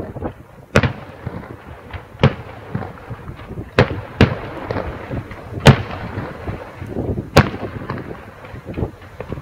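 Fireworks display going off: about six sharp bangs a second or so apart, two of them close together near the middle, with smaller pops and crackles in between.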